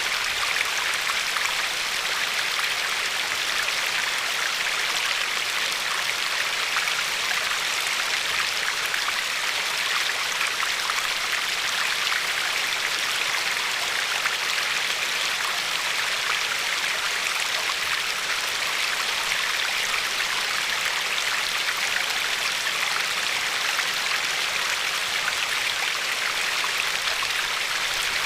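River water flowing and lapping over a pebbly shore: a steady, even rushing with fine splashing detail.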